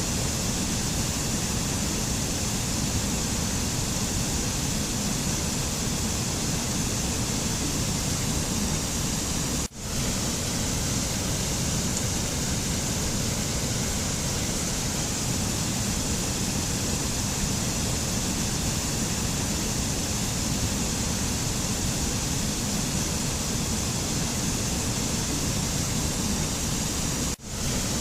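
Steady rushing noise of a mountain nature-sound recording, even and unbroken except for two brief dropouts, about ten seconds in and near the end, where the track cuts out for an instant.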